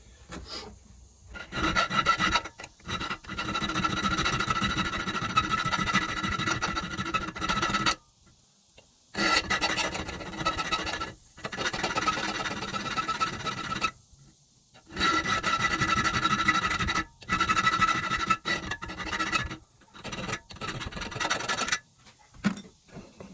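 Round file being stroked quickly back and forth on a leaf-spring steel knife blade, cutting the sharpening notch at the heel of the edge; the steel rings with a steady tone under the strokes. The filing comes in long runs with a few short pauses.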